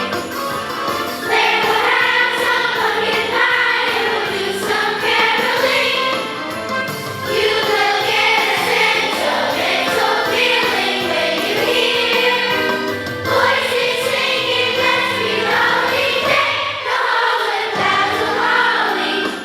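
A choir singing a seasonal song with instrumental accompaniment.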